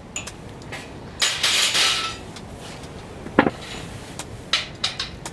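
A series of clinks and knocks from objects being handled, with a scraping rustle about a second in and the sharpest knock at about three and a half seconds, which rings briefly.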